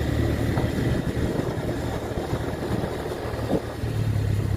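A motor vehicle running, a low uneven rumble.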